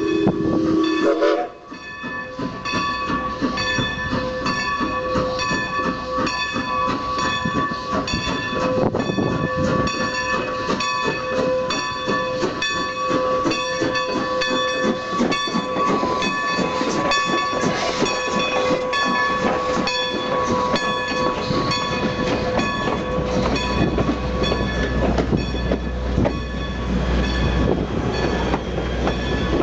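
Strasburg Rail Road 2-10-0 steam locomotive No. 90 and its train rolling into the station. A whistle blast cuts off about a second and a half in. Then steady high ringing tones and rapid clicking run over the sound of the rolling cars, and a deeper rumble builds near the end.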